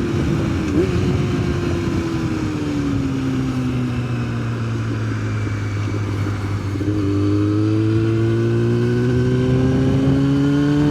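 Yamaha sportbike engine heard from the bike while riding. The engine note eases off and slowly drops over the first five seconds, then climbs steadily from about seven seconds in as the bike accelerates, with wind noise throughout.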